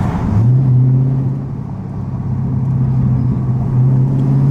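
Dodge Scat Pack's 392 Hemi V8 running under way with a steady exhaust drone. Its pitch steps up about half a second in, then holds level.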